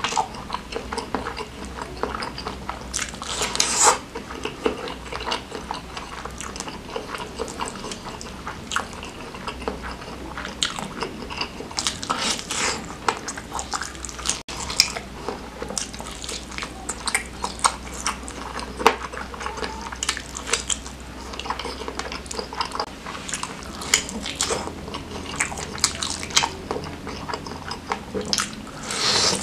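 Close-miked eating of spicy bakso beranak (a large stuffed beef meatball) and fatty beef trimmings: wet chewing and biting with many short, sharp mouth clicks and smacks.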